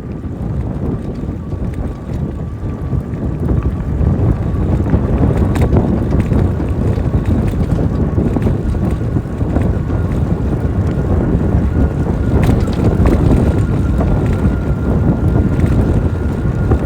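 Wind buffeting the microphone on a moving e-bike: a steady, loud low rumble, with a faint thin high whine running under it.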